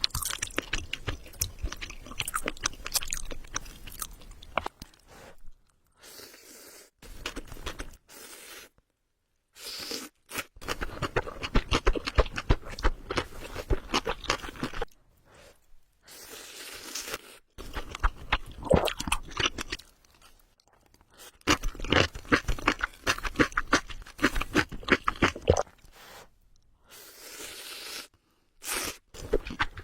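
Close-miked eating of spicy ramen: wet chewing and mouth clicks in dense bursts, cut off by several abrupt short silences.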